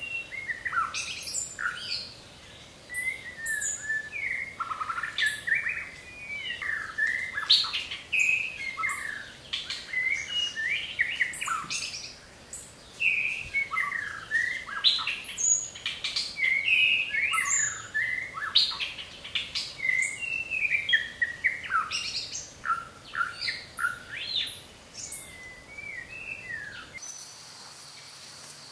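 Birds chirping in quick, overlapping calls. Near the end the chirping stops, leaving a faint steady high hiss.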